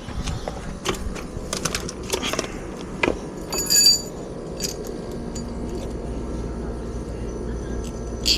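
Scattered clicks and knocks of small metal hardware or tools being handled, with one ringing metallic clink about halfway through. A steady low hum comes in over the second half.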